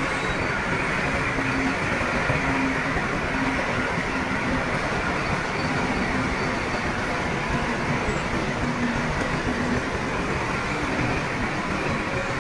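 Crawler bulldozer's diesel engine running steadily, with the dense clatter of working heavy machinery.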